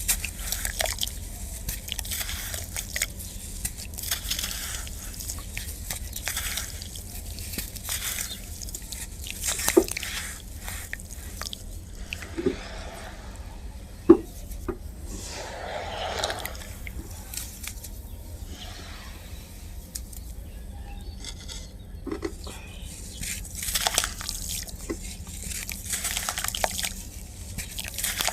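Clumps of dry black sand crumbling and dropping into water, making an irregular crackly crunching and fizzing with drips and trickles. A few sharp pops stand out, the loudest about halfway through.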